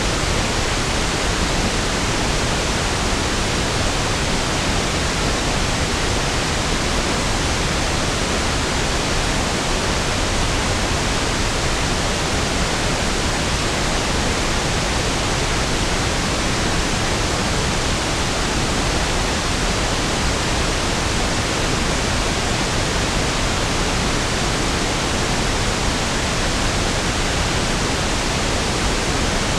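Steady pink noise: an even, unchanging hiss spread across all pitches, its energy equal per octave, so it sounds smoother and deeper than white noise.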